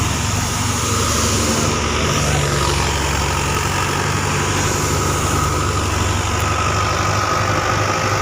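Farm machinery engine running steadily at constant speed, with a low drone and a steady high whine over it.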